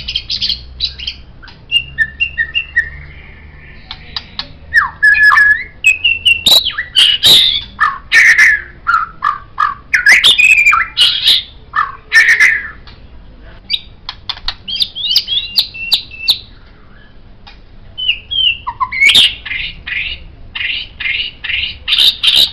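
White-rumped shama (murai batu) singing a varied song of clear whistles, pitch glides and harsher notes, with a short pause around a sixth of the way in and another a little past the middle. Quick runs of repeated notes open the song and come back near the end.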